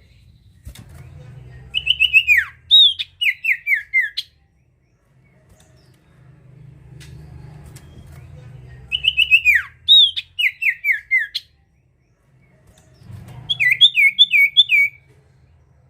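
Sirtu (common iora) singing three phrases of clear, down-slurred whistled notes. The last phrase is a quicker run of short repeated notes. A faint low hum runs underneath.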